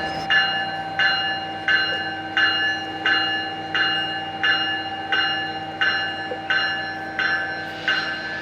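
Railroad grade-crossing bell ringing steadily, just under two strikes a second, over a steady low hum.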